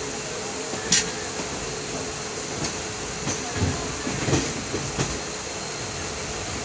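Passenger train running on the rails, heard from aboard the coach: a steady rumble with the wheels knocking over rail joints and points, a sharp click about a second in and a cluster of knocks around four to five seconds in.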